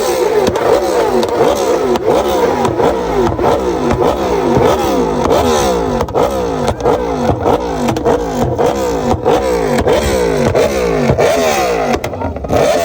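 Naked motorcycle's engine revved loudly in quick repeated throttle blips, nearly two a second, the pitch rising and falling with each blip.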